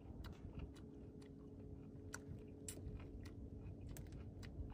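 A person chewing fruit: faint, irregular soft crunching clicks, over a faint steady low hum.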